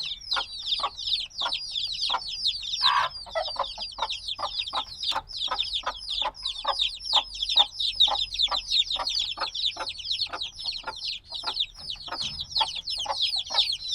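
A brood of chicks only a few days old peeping continuously, many short high descending peeps overlapping several times a second, with a short lower call about three seconds in. Chicks this young peep loudly like this while they still need the warmth of a mother hen.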